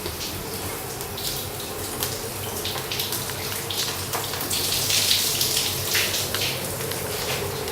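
Running water, a steady hiss with scattered splashes, swelling louder about five seconds in.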